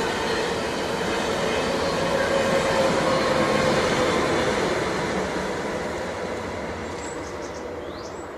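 A train running by on the rails: a steady rumble with a held whine over it, loudest about halfway through and then slowly fading.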